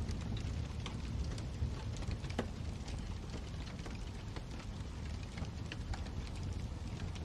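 Wood fire burning in a fireplace: a steady low rumble of flames with scattered sharp crackles and pops, a few louder ones about a second and two and a half seconds in.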